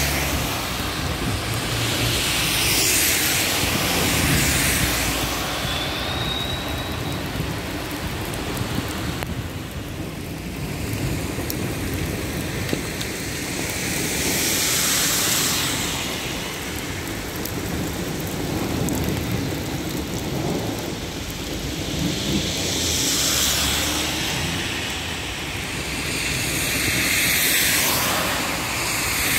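Heavy rain pouring onto a waterlogged street. The hiss of car tyres through standing water swells and fades several times as vehicles pass.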